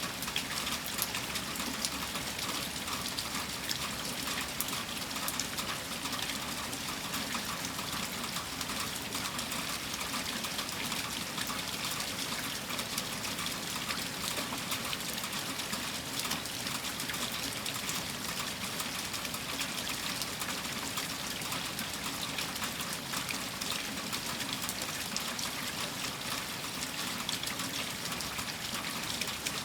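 Steady rain falling, a dense, even patter of drops with no break.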